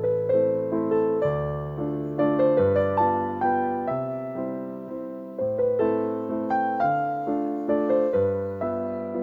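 Background piano music: a gentle melody of single struck notes over sustained chords, each note fading after it is struck.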